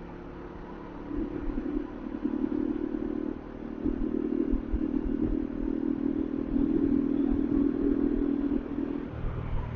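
Bajaj Dominar 400's single-cylinder engine running as the motorcycle is ridden through city traffic, heard from on board. The engine note starts about a second in, eases briefly a little after three seconds, then picks up again and holds before easing near the end.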